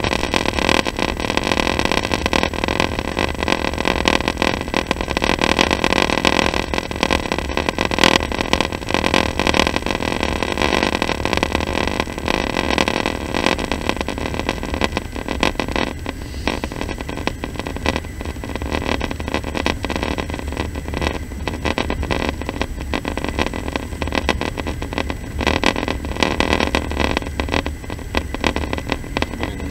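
Passenger train running, heard from inside the carriage: a steady rumble with rattles and clicks throughout, a little quieter in the second half.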